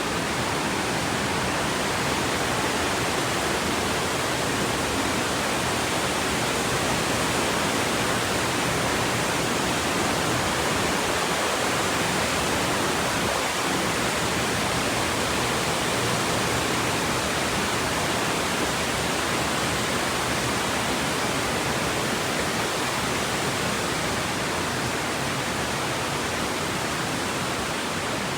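Steady rushing of creek water flowing over rocks, an even, unbroken wash of sound.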